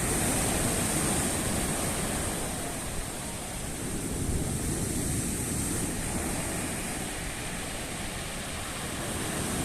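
Storm surf on the sea: waves breaking and washing ashore in a steady rush with slow swells of loudness.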